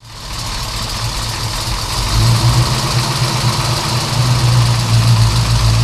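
A vehicle engine idling steadily with a deep, even note, growing somewhat louder about two seconds in. It starts and stops abruptly out of silence, like a dubbed-in engine sound effect.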